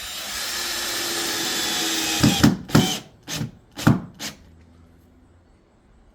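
Power drill driving a screw into the subfloor: a steady run of about two and a half seconds, then several short bursts of the drill to finish seating the screw.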